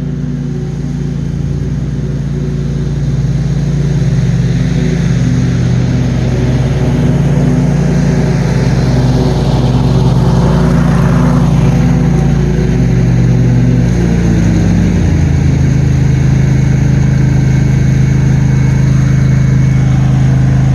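John Deere QuikTrak 652R stand-on mower's engine running steadily; it grows louder over the first few seconds and its note shifts about fifteen seconds in.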